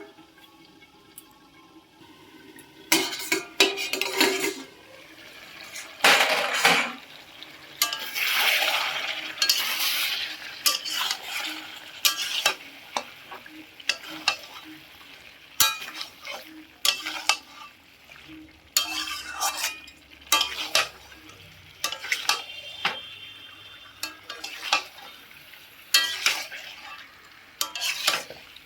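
A cooking spoon scraping and clinking against a pan in repeated stirring strokes, every second or two, while food fries in it; a longer hiss of sizzling rises about eight seconds in.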